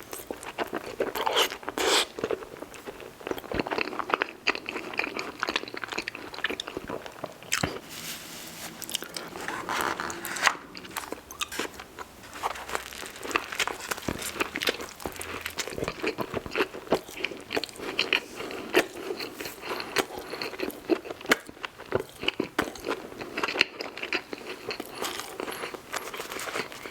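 Close-miked biting, crunching and chewing of Cajun-seasoned fries loaded with ranch and cheese sauce: a dense, irregular run of crunches and mouth sounds throughout.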